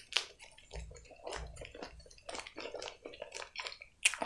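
Close-miked chewing of a mouthful of lettuce-leaf wrap: a run of short, irregular wet mouth clicks, with one louder click near the end.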